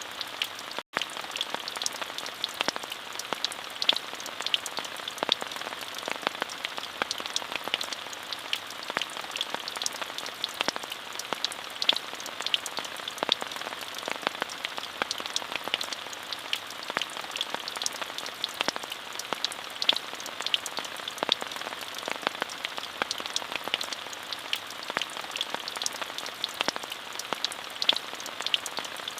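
Steady rain falling, an even hiss sprinkled with the ticks of individual drops, with a split-second dropout just under a second in.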